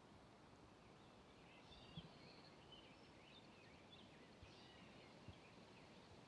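Faint woodland birdsong: scattered short chirping calls, busiest through the middle, over a quiet outdoor hiss, with a few soft footfalls on the trail.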